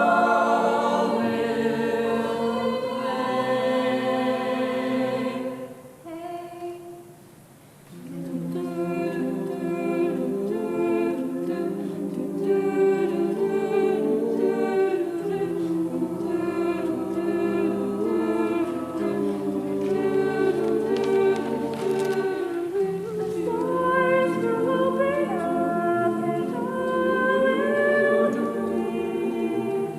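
A choir singing in several parts, with held chords and moving lines. There is a brief hush about six seconds in before the voices come back in.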